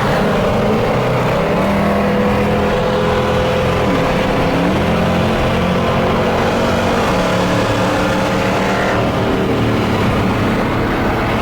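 Loud V8 muscle-car engine running and revving, its pitch dipping and rising again about halfway through and climbing once more near the end.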